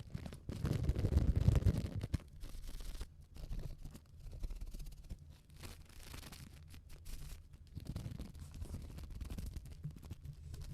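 A paper tea bag without its wrapper is squeezed and rubbed between fingers close to the microphone, giving a dry, scratchy rustling with fine crackles, sped up. The handling is loudest in the first couple of seconds, then comes in quieter irregular bursts.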